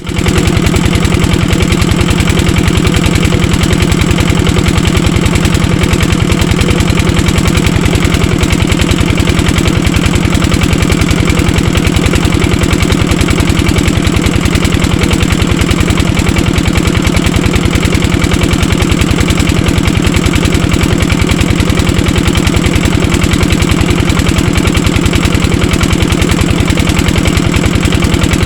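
Diesel engine driving an irrigation water pump, running steadily with rapid, even exhaust beats.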